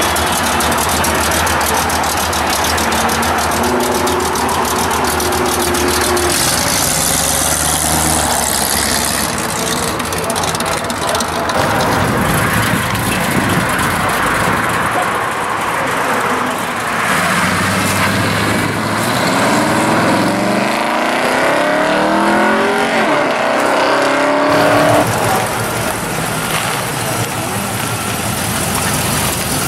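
Classic American cars driving slowly past one after another, engines running with a low rumble. About two-thirds of the way through, one car's engine revs up with a rising pitch as it accelerates away.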